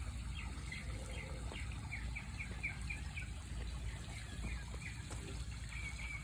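Small birds chirping in a run of short, quick notes over the steady trickle of running water.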